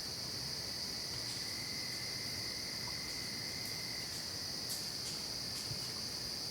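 Night-time insect chorus of crickets: a steady, unbroken high trill, with a fainter, lower steady tone sounding from about half a second in to about four seconds in.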